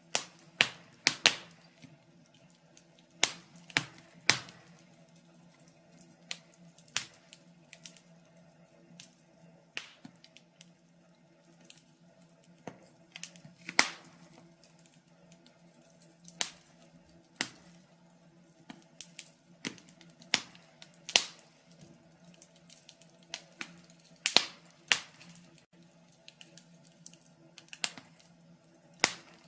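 Log fire crackling: irregular sharp pops and snaps, uneven in spacing and strength, a few much louder than the rest, over a faint steady low hum.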